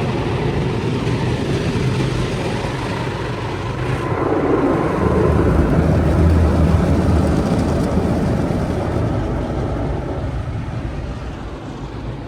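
Automatic car wash machinery working over the car, heard from inside the cabin: a loud, steady rushing of spray and equipment with a low hum underneath, swelling about four seconds in and easing off near the end.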